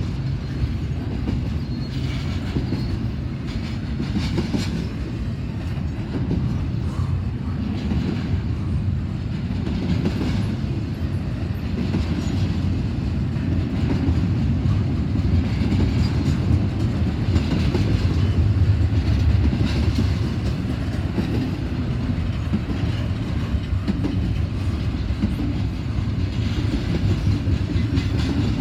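A long double-stack intermodal freight train rolling past: a steady heavy rumble of cars and wheels with repeated clacks as the wheels pass over the track joints.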